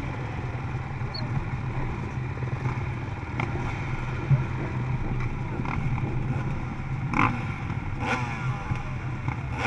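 Dirt bike engines running steadily, with a few sharp clicks and a rising and falling rev near the end.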